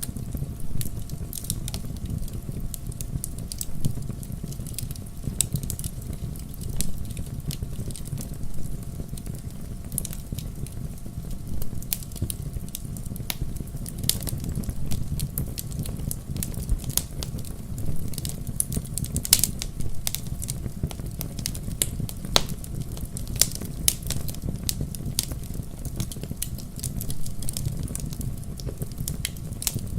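Wood fire crackling in a fireplace: a steady low rumble of the flames with frequent, irregular sharp pops and snaps.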